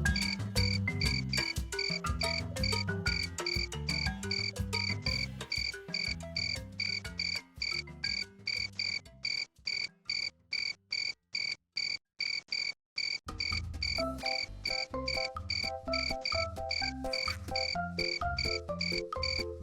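Crickets chirping at night: a steady high-pitched trill pulsing about three times a second. Lower-pitched notes run underneath, drop away for a few seconds about halfway through and then come back.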